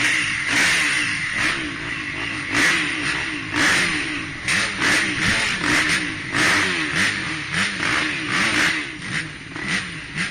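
Several off-road racing engines at once, repeatedly revving up and falling back as the riders race the track.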